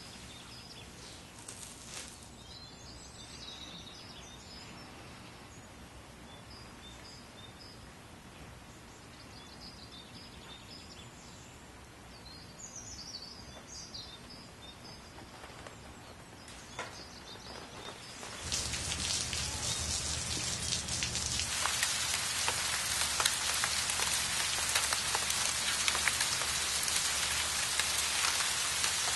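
Quiet outdoor ambience with birds chirping now and then, then about two-thirds of the way through heavy rain sets in suddenly, a dense steady hiss of drops falling on water and hard surfaces.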